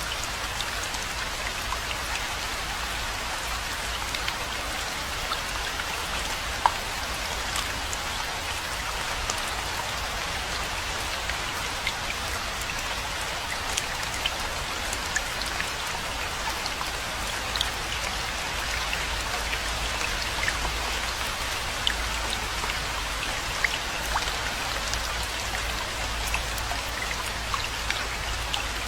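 Steady rainfall, with many individual drops ticking sharply close by throughout, over a low rumble.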